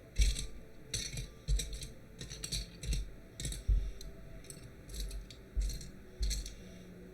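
Lego pieces being handled and pressed together: irregular short plastic clicks and light knocks, about a dozen of them.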